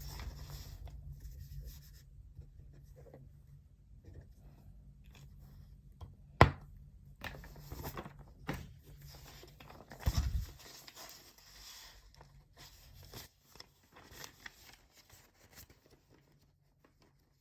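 Desk handling sounds: paper rustling and scraping with scattered light clicks, a sharp knock about six seconds in and a heavier thud about ten seconds in. A low steady hum stops about two thirds of the way through.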